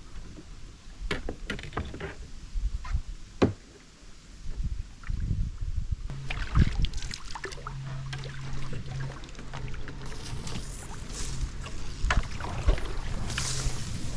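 Canoe on the water: a few sharp knocks against the hull in the first seconds, then the splashing and dripping of paddle strokes. A low steady hum runs underneath from about six seconds in.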